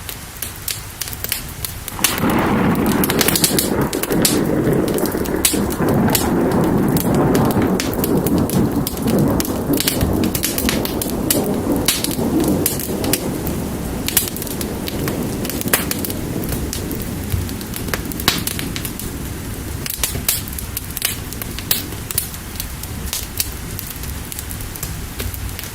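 Fire crackling with sharp pops over steady rain. About two seconds in, a long roll of thunder starts suddenly and is the loudest sound, slowly fading away over the following ten seconds or so.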